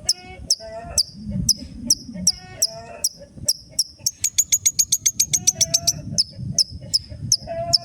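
Long-tailed shrike (cendet) singing in full voice: sharp, high, down-slurred notes repeated two to three times a second, mixed with harsh chattering phrases, and a fast run of rapid notes from about four to six seconds in.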